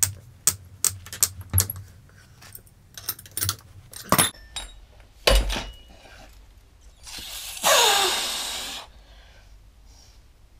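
Sharp metallic clinks and taps of spanners and small exhaust fittings being handled, then a heavier knock about five seconds in. Later comes a metal-on-metal scrape lasting over a second with a falling squeal, as of a motorcycle exhaust pipe being worked loose.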